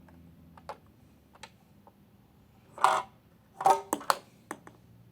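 Hard plastic toy parts clicking and knocking: a few light clicks, then a short louder rattle a little past halfway and a quick cluster of sharp knocks just after it.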